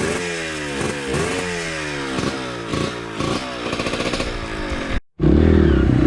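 Dirt bike engine revving, its pitch rising and dropping repeatedly. About five seconds in it cuts off abruptly and music starts.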